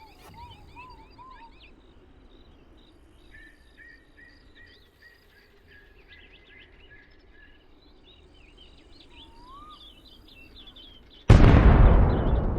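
Birds chirping and calling steadily, with a few slow rising whistles. Near the end there is a sudden loud boom that dies away over a few seconds.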